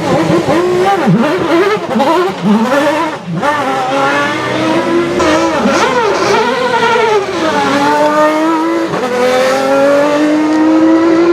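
Ferrari 333SP's V12 racing engine revving hard, its pitch swooping up and down again and again with quick throttle lifts and gear changes, then climbing steadily over the last few seconds as it pulls through a gear.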